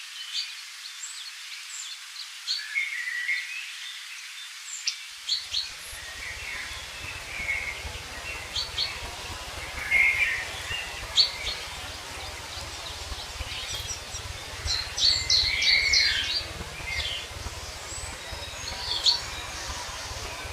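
Several songbirds calling and singing in short chirps and trills over a steady hiss. From about five seconds in, a low rumble runs underneath.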